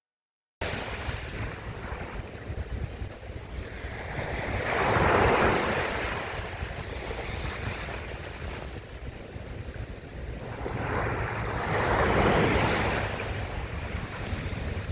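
Sea surf: waves breaking and washing in, rising in two broad swells about seven seconds apart over a steady low rumble of wind on the microphone. The sound cuts in suddenly after a moment of silence.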